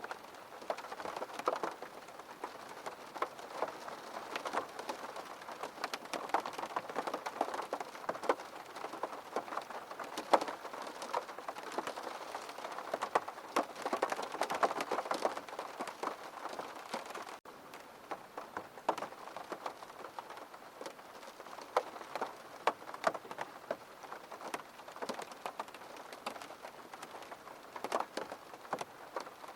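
Steady rain striking a window pane: a dense hiss of drops with many separate sharp ticks. The level drops slightly and suddenly a little past halfway through.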